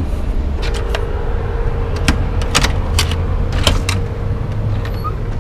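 Steady low rumble, typical of a car on the road heard from inside, with a faint steady hum and a string of sharp clicks and rattles scattered through it.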